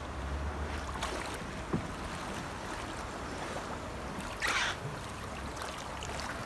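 Water lapping and sloshing, with one short, sharp puff from a dolphin's blowhole about four and a half seconds in.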